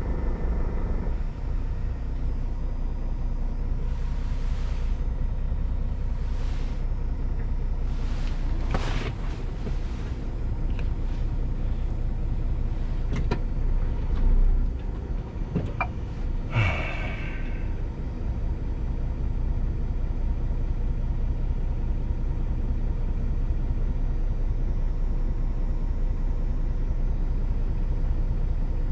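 Scania G410 truck's 13-litre inline-six diesel running steadily under way while pulling a loaded container trailer, a continuous low rumble. Several short hisses come in the first half, and a brief squeal sounds a little past the middle.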